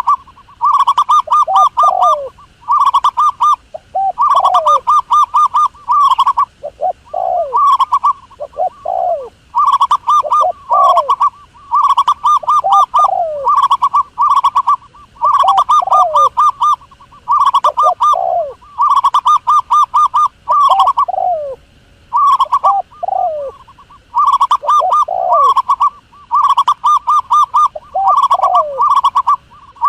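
Dove cooing: repeated phrases of quick rattling coo notes, each followed by a few falling notes, with short gaps between phrases.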